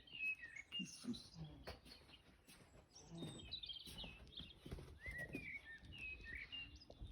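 Small birds chirping: scattered short, high chirps over faint outdoor background noise.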